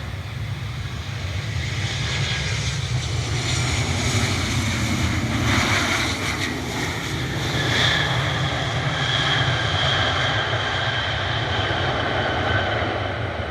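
Boeing 737-900 jet airliner coming in to land, its CFM56 turbofan engines giving a steady rumble with a high fan whine that slowly falls in pitch from about eight seconds in.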